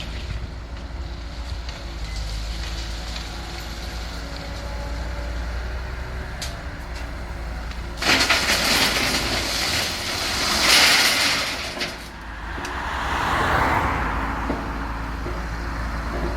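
An engine running steadily, broken about halfway by a sudden loud rushing noise that lasts some four seconds, then a fainter swell that dies away.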